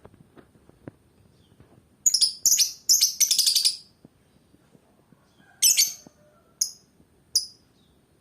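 Lovebird calling: a run of shrill, rapid chirps lasting about two seconds, then one short burst and two single chirps.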